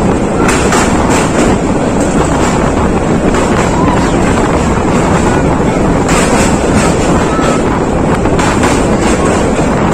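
Moving passenger train heard from on board: the steady, loud running noise of the coaches at speed, with wind buffeting the microphone.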